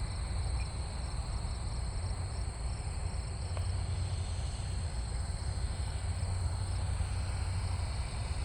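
Steady low wind rumble on the microphone, with crickets chirping in a faint even rhythm over a steady high insect drone.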